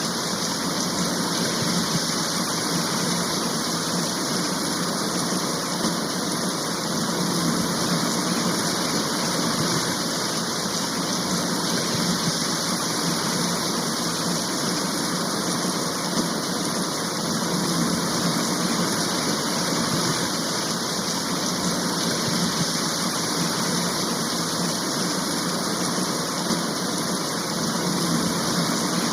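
Heavy rain shower falling steadily: an even, unbroken hiss of downpour.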